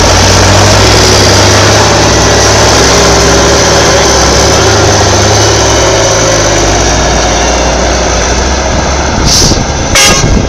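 A heavy truck's diesel engine running loud and steady under load as a stuck truck is pulled out of a hole, its pitch shifting partway through. Near the end come two short bursts of noise.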